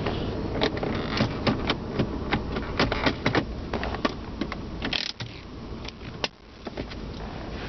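Rapid clicks and knocks from the Jeep's interior controls being handled, over a low steady hum. The hum drops away for a moment about five seconds in, then returns.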